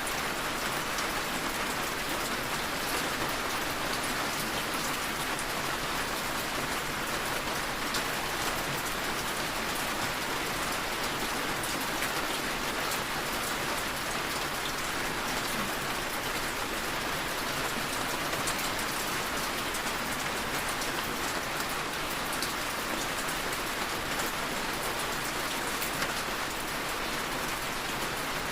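Steady rainfall with scattered fine drop ticks, an even hiss that does not change.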